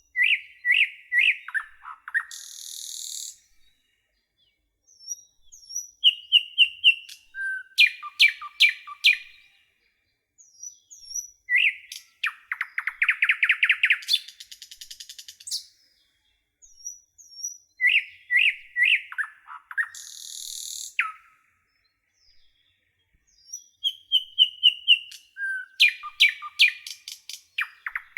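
A nightingale singing: phrases of a few seconds made of quick repeated notes, whistles and fast trills, separated by short pauses. A similar phrase pattern comes back about every six seconds, against a silent background.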